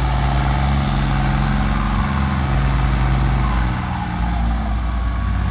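A heavy vehicle's engine running steadily with a deep, low hum, its pitch shifting slightly partway through.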